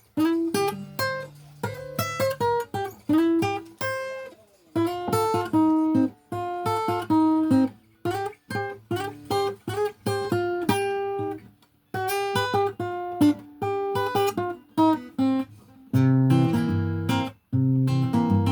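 Acoustic guitar intro: single picked notes in short phrases with brief pauses between them, switching to fuller strummed chords about three seconds before the end.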